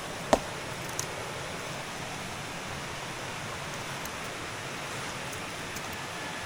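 Steady rush of running water, with one sharp stone-on-stone knock about a third of a second in and a lighter click about a second in as stones are set into a wall.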